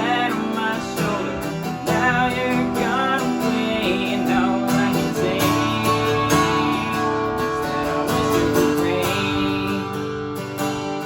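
Acoustic guitar strummed through a country song, with a voice singing over it.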